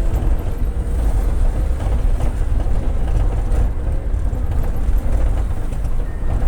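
Steady low rumble of a road vehicle on the move, with tyre and wind noise and no distinct events.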